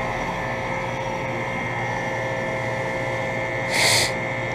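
2007 Guardian 4-ton central air conditioner condensing unit running steadily, its Bristol compressor and A.O. Smith fan motor giving a steady hum with a few held tones. A brief rush of noise comes about four seconds in.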